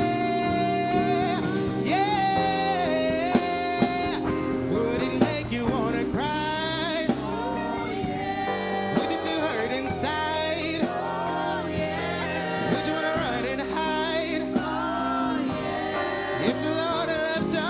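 Live gospel song: a male singer's wordless sliding runs and held notes over sustained band chords.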